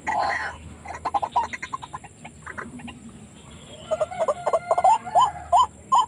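White-breasted waterhen calling: scattered short notes give way, about four seconds in, to a loud run of repeated curved 'ruak' calls, about three a second.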